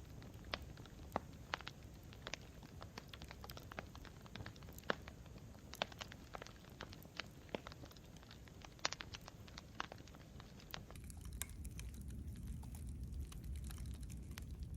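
Campfire crackling: irregular sharp snaps and pops over a low rumble of burning wood. About eleven seconds in the rumble grows louder and the snaps become fewer.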